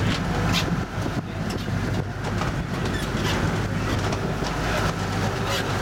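A boat's engine running steadily, with a low hum, while it holds the boat on a hooked tarpon. A few short clicks sound over it.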